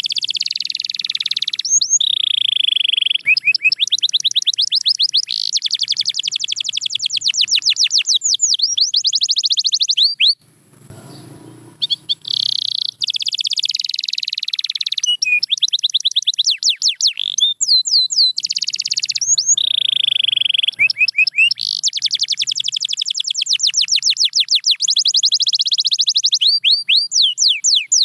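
Domestic canary singing a long song of rapid trills, fast runs of repeated notes and sweeps, with a short pause about ten seconds in before the song resumes.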